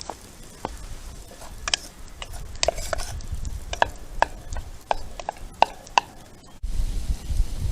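A series of sharp knocks and clinks, about a dozen at uneven intervals, from cookware and utensils being handled over a campfire. Near the end a low rumbling noise sets in suddenly.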